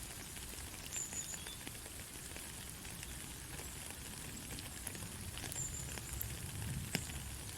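Steady rain falling, a dense hiss with many individual drops ticking and pattering on a surface. Two brief high-pitched chirps sound about a second in and again near the end.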